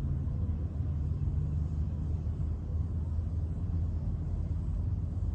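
Steady low rumble of a car, heard from inside the cabin, with no distinct events.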